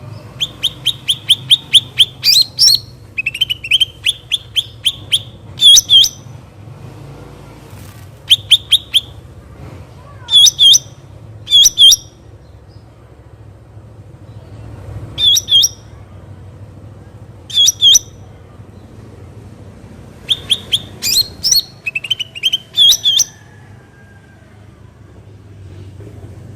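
Cucak ranting calling up close: loud, sharp chirps in quick runs of several notes, repeated in bursts with pauses of a second or more between them.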